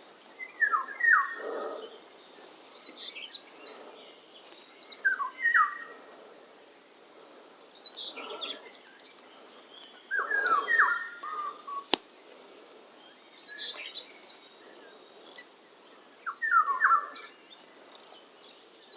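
A songbird singing short phrases of quickly falling whistled notes, about every five seconds, with fainter higher chirps between them. A single sharp click about twelve seconds in.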